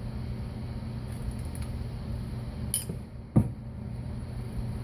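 Metal stock and a bending tool being handled between bends: a light metallic click, then a single heavier knock about three and a half seconds in, over a steady low hum.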